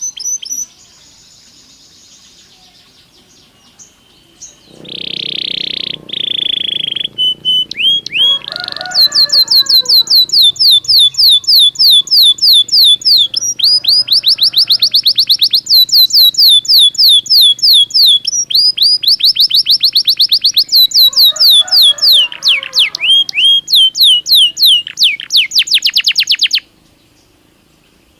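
Belgian canary singing: a steady held whistle, then a long, loud run of fast repeated falling notes that stops abruptly near the end.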